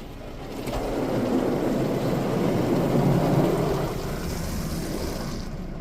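Laserwash 360+ touchless car wash spraying high-pressure water over the car, heard from inside the cabin as a dull drumming rush like heavy rain. It swells about a second in and eases off after about four seconds as the spray passes.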